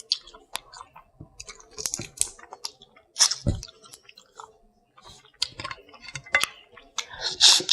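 A person eating seafood close to the microphone: irregular chewing and wet mouth sounds broken by sharp clicks, in short bursts with brief pauses.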